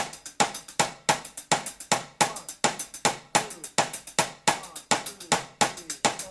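Percussion-only intro of a dance track: a steady drum beat of about two hits a second, with no melody yet.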